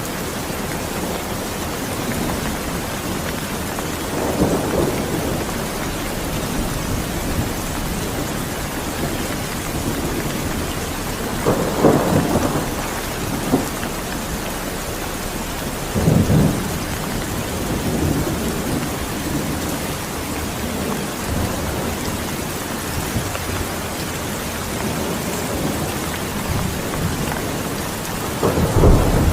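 Steady heavy rain falling, with rolls of thunder rumbling up several times and a louder rumble building near the end.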